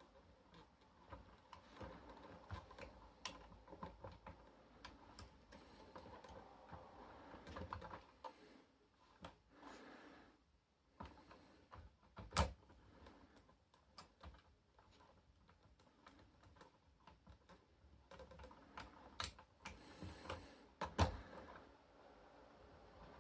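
Irregular light clicks and taps, several a second at times, with two sharper knocks, one about halfway through and one near the end.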